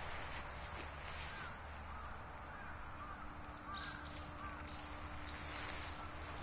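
Birds calling: a run of short chirps, then several sharp high calls in the second half, over a steady low background rumble.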